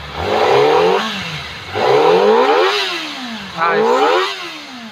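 Kawasaki ZX25R's inline-four engine on its stock exhaust, revved three times; each rev climbs quickly in pitch and then falls back toward idle.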